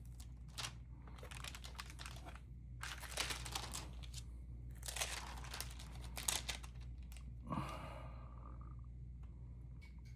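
Stamp album pages being turned and handled, paper and plastic sleeves rustling and crinkling in several short bursts over a low steady hum.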